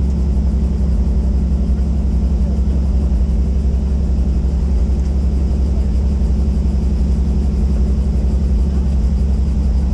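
Helicopter running steadily in flight: a loud, even low drone of engine and rotor that does not change.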